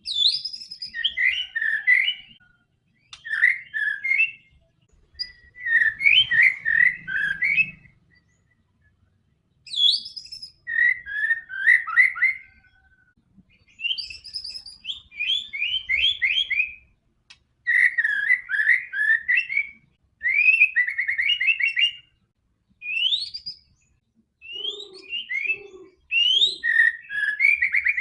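White-rumped shama (murai batu) singing a series of loud, varied phrases of rapid notes and rising whistles, each a second or two long, with short pauses between.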